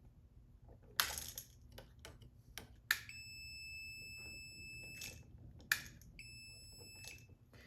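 Non-contact voltage tester sounding a steady high-pitched tone for about two seconds, then again for about a second, signalling that it detects voltage on the wire it is held to. A few sharp clicks come from the wires being handled.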